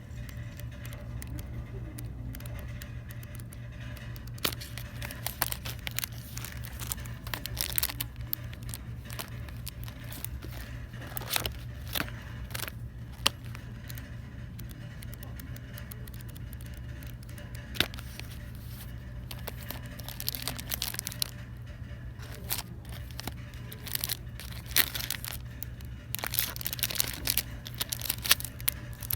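Plastic packaging crinkling and rustling as store merchandise is handled, with scattered sharp clicks and crackles over a steady low hum.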